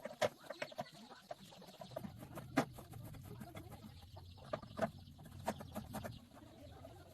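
Chickens clucking, with scattered short sharp taps and a low rumble that starts about two seconds in.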